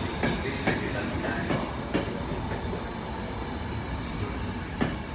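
Trenitalia passenger coaches rolling past along a station platform. Their wheels click sharply over rail joints a few times over a steady rumble, with a faint high wheel squeal from about one to two and a half seconds in.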